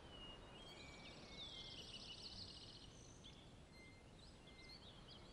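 Faint birdsong: several small birds chirping, with a quick trill about two seconds in, over a low steady background noise.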